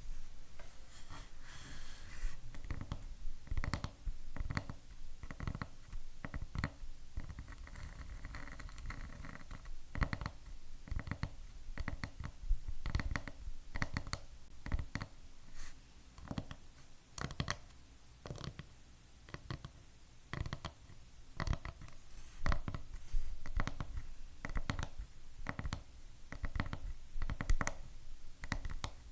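Fingernails tapping quickly and irregularly on hard objects, many sharp separate clicks, with short stretches of nails scratching across a surface.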